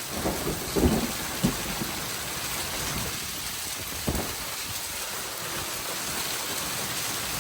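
Heavy rain and hail coming down in a severe thunderstorm: a steady hiss, with a few sharp knocks of hailstones striking, most of them in the first couple of seconds.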